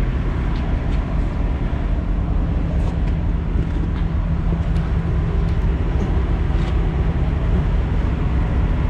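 Diesel engine of a 2011 International semi tractor idling steadily, with a few faint ticks and clicks over it.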